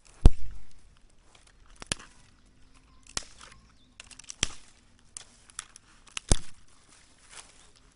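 A series of sharp cracks and knocks, five loud ones irregularly spaced a second or two apart, with softer clicks and rustling between them.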